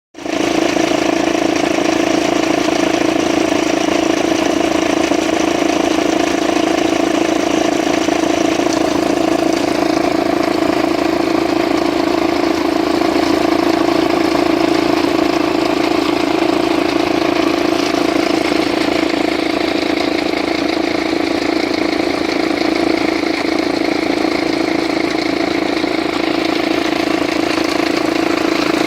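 Audi A3's 1.9 TDI four-cylinder turbodiesel idling steadily, with a constant hum over the running. It makes a weird sound, and the engine seems loud to the owner, who suspects the belt tensioner.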